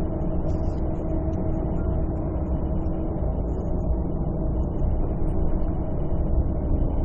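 Volvo 9700 Grand S coach's Volvo D13C 13-litre inline-six diesel running at a steady speed: a deep, even rumble with a steady hum over it and no revving.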